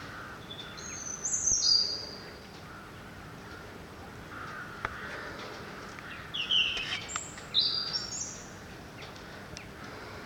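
A songbird singing two bright, high trilled phrases, one about a second in and another about six seconds in, with crows cawing in the distance.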